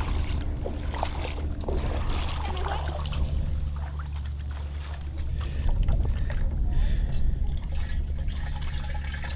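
Water being poured into a bait bucket of live shrimp, trickling and splashing with small knocks, over a steady low hum.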